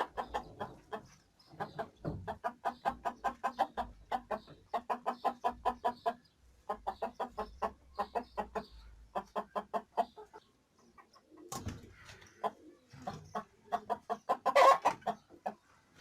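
Baladi hens clucking in rapid runs of short notes, with a few brief pauses and a louder squawk near the end.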